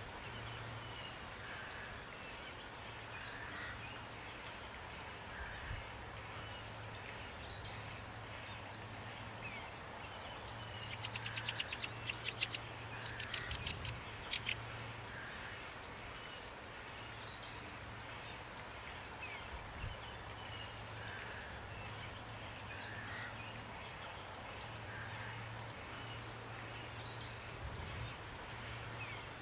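Steady rain with many songbirds calling over it in short, high, repeated chirps and downward-sweeping notes. About eleven seconds in, a rapid clicking series runs for around three seconds. A faint low hum sits underneath throughout.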